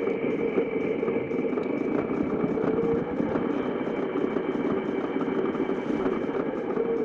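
Toy washing machine's small electric motor running steadily, a continuous buzzing whir that switches on just before and keeps going without a break.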